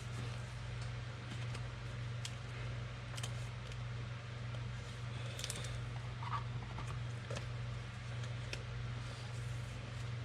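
Trading cards being handled and sorted by hand: scattered soft clicks and rustles over a steady low hum.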